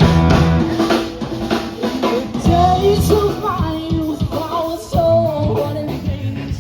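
Live rock band playing, with drum kit, bass and a gliding melodic line that is singing or lead guitar. The music comes in loud all at once at the start.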